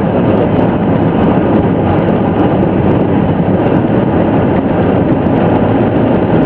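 Steady road noise inside a car cruising at expressway speed in the rain: tyres on the wet road with a low hum underneath.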